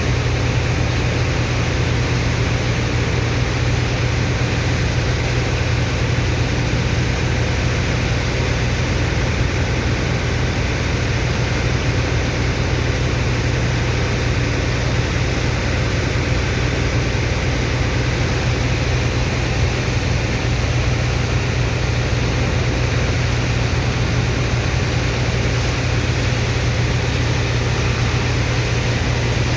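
Sand dredger's pump engine running steadily: a constant low drone with an even hiss over it, holding the same speed throughout.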